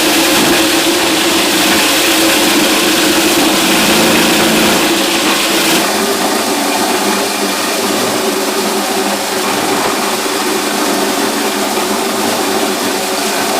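A motor running steadily with a constant hum; its sound thins slightly about six seconds in.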